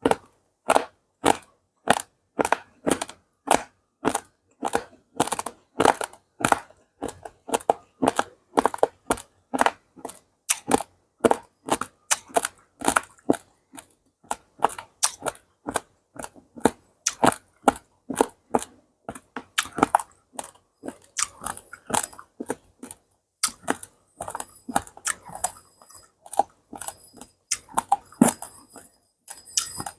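A person chewing a mouthful of hard, dry raw corn rice (beras jagung) close to the microphone, the grains cracking in sharp crunches about twice a second. In the last third the crunches turn softer, quicker and less regular as the grains break down.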